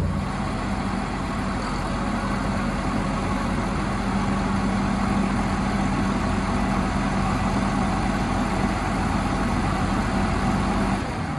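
A large engine running steadily at constant speed, with a low, even hum. Its steady tone drops away near the end.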